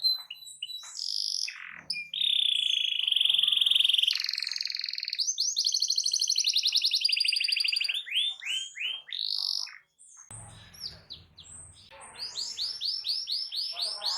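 Canary singing a loud song of long fast trills and runs of quick repeated sweeping notes, with a short break about ten seconds in before another rapid run of notes.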